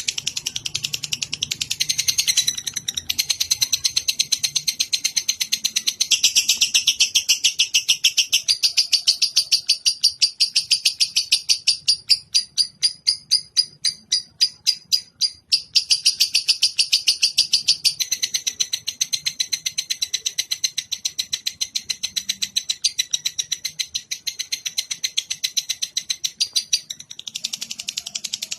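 Songbird singing a long, fast chattering trill of high, clicky notes with hardly a pause. About halfway through it slows to separate notes for a few seconds, then speeds up again.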